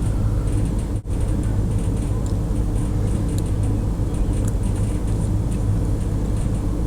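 A steady low rumble of background noise, dropping out briefly about a second in, with a few faint ticks over it.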